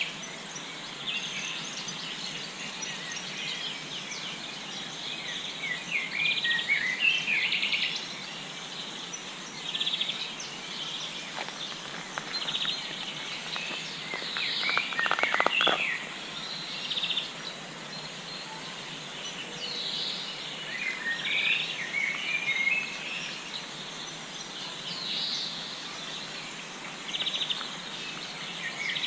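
Several songbirds singing in spring: short chirps and trills come and go throughout over a steady background hiss, with a louder run of rapid notes about halfway through.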